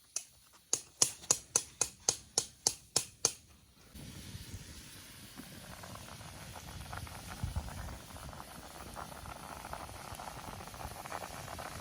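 A quick run of about a dozen sharp, ringing clicks, about four a second, then about four seconds in a steady hiss with a low rumble and a fine crackle that carries on.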